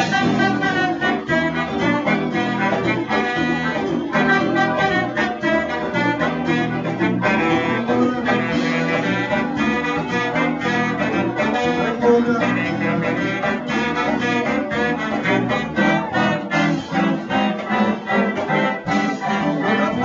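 Live band music led by a brass horn section playing over a steady rhythmic beat.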